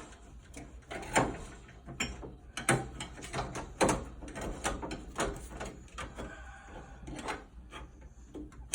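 Irregular knocks, clicks and scraping of parts being handled as a new blower motor is worked back into an Amana PTAC unit, over a low steady hum.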